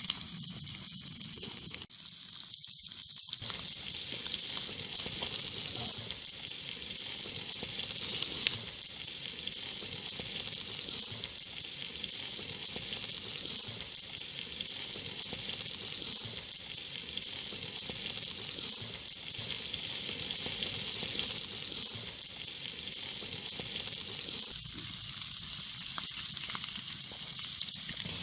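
Lamb kokoreç sizzling on a tin sheet over a campfire: a steady frying hiss with fine crackles, and one sharper crack about eight seconds in.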